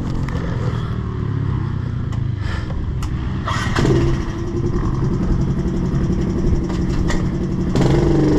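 110cc pit bike's four-stroke single-cylinder engine running under throttle. The engine note steps up in pitch about four seconds in and again near the end as the bike is revved harder.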